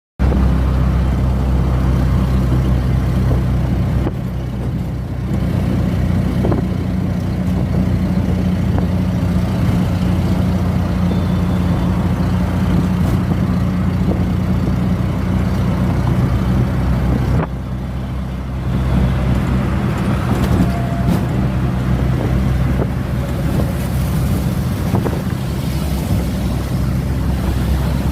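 Steady low rumble of a moving motor vehicle, dipping briefly about four seconds in and again about seventeen seconds in.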